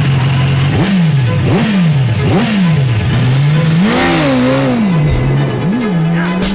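BMW S1000RR's inline-four engine being revved in short blips while stationary, pitch rising sharply and falling back about five times, with one longer held rev about two-thirds of the way through, over background music.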